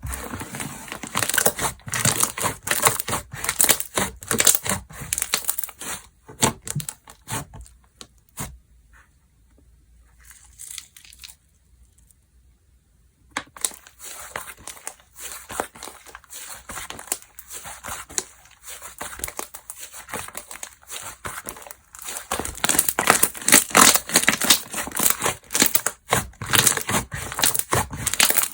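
Slime being squeezed, stretched and pressed by hand, giving dense crackling and popping clicks. It goes almost quiet for a few seconds in the middle, then the crackling comes back and grows loudest near the end.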